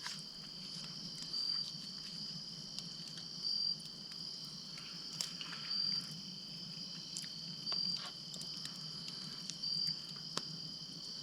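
Steady high-pitched insect chorus, with one insect's short chirp repeating about every two seconds over it. A few faint sharp clicks come through.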